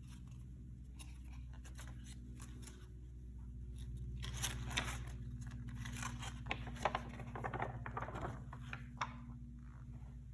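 Trading-card deck packaging being handled and torn open: a few light clicks and taps, then from about four seconds in several seconds of crinkling, tearing plastic or foil wrap with sharp snaps, dying away near the end.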